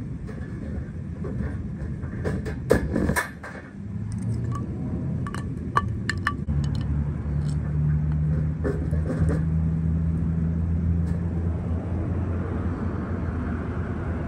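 Sharp metallic clicks and clatter of a wire cat trap being handled and set, loudest about two to three seconds in, with a few more clicks around five to six seconds. From about six seconds a steady low hum runs under it.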